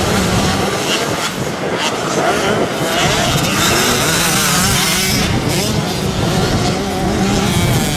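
Several motocross bikes racing on a dirt track, their engines revving up and down over one another in a continuous loud mix.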